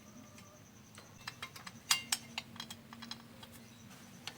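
Scattered light clicks and taps from a power amplifier board being handled, the loudest a sharp click about two seconds in.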